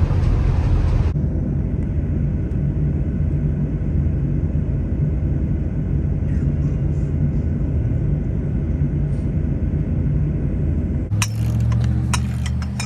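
Steady low rumble of a Dodge Ram 3500 Cummins diesel pickup driving at road speed. About 11 s in it gives way suddenly to a different low hum with a run of sharp clicks and clatter.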